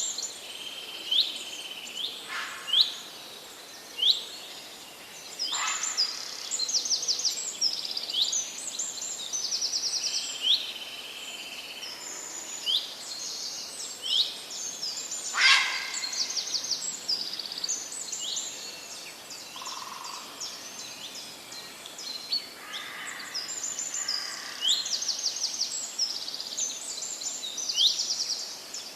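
Several songbirds chirping and singing over one another: short sharp chirps and quick trills of repeated notes, with a louder call about halfway through, over a light steady outdoor background.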